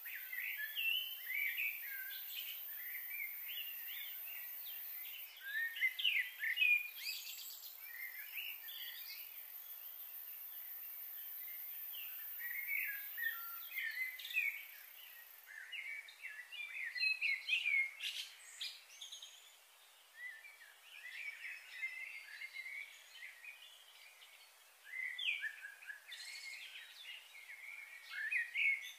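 Several birds chirping and twittering in many short calls, busier in patches. A faint steady high-pitched hiss runs under them for about the first half, then stops.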